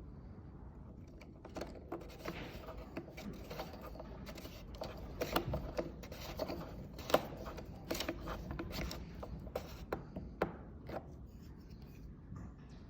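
Hand tool being worked against a motorised surfboard's exhaust: irregular metallic clicks and scraping, busiest in the middle and thinning out near the end.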